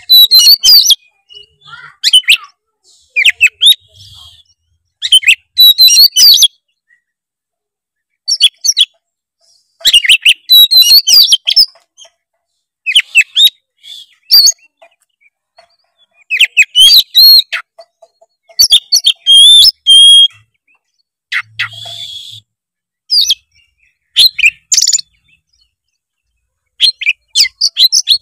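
Oriental magpie-robin (kacer) singing in loud bursts of rapid, varied, high twittering phrases, each a second or two long, with short pauses between. The song is a full 'isian' song, filled with phrases mimicked from other birds.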